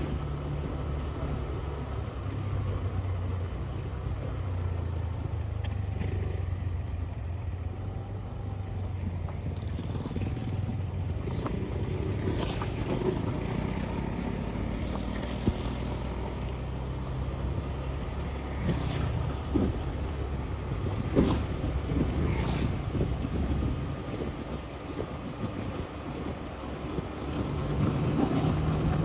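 Motorbike engine running while riding, its speed shifting up and down a little, with wind on the microphone. A few brief sharp sounds come in the second half.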